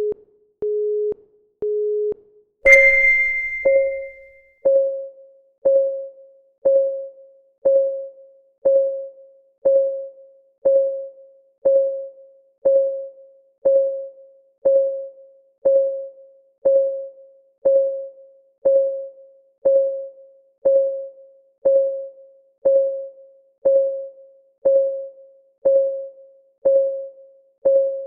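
Countdown timer sounds: three short beeps a second apart, then a bright ringing ding about three seconds in. After it comes a steady clock tick, once a second, each tick a short pitched note that quickly fades.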